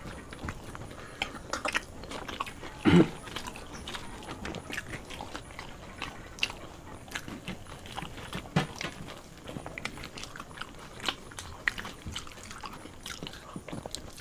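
Close-miked eating of paratha flatbread and dum aloo potato curry by hand: chewing, lip smacks and small wet clicks scattered throughout, with one louder short mouth sound about three seconds in.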